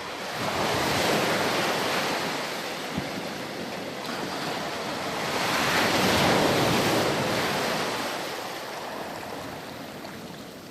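Ocean surf: waves breaking and washing up on a beach, swelling twice and then fading. A brief click about three seconds in.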